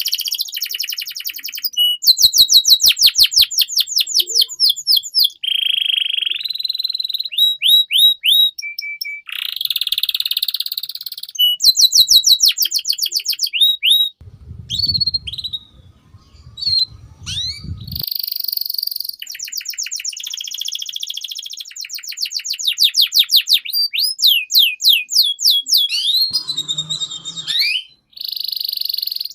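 Domestic canary singing a long, varied song: fast trills of rapidly repeated high notes alternating with rising and falling whistled phrases and rolls, with only brief breaks.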